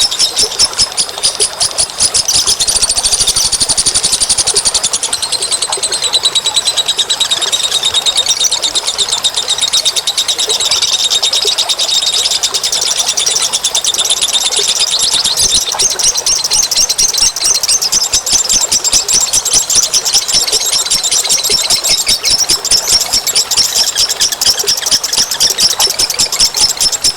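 Small birds chattering in fast, rattling high-pitched trills without a break: a bird-lure call recording used to attract wild birds.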